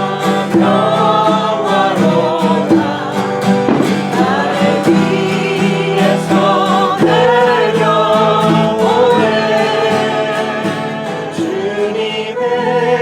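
A small group singing a Korean praise song together to a strummed acoustic guitar.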